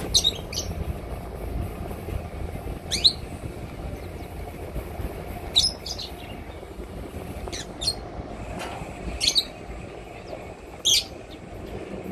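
A bird calling in short, high chirps, singly or in quick pairs, every two seconds or so, over a low steady rumble.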